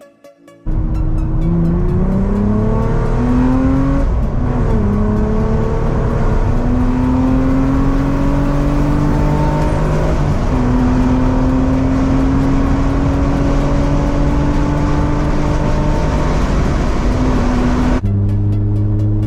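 Car engine pulling hard through the gears: the engine note climbs in three long rises, each ended by a sudden drop in pitch at an upshift, then settles into a steadier, lower note near the end.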